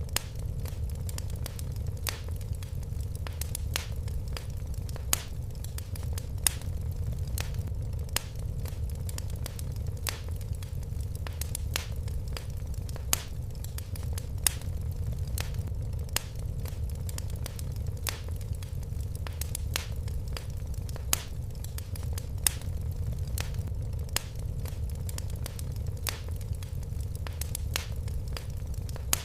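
Fire crackling in a fireplace: irregular sharp pops and snaps, a few louder than the rest, over a steady low rumble of the flames.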